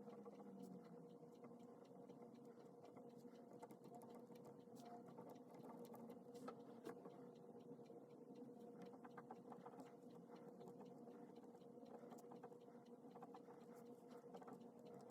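Faint pen scratching and tapping on paper during handwriting, many small irregular clicks, over a steady faint hum.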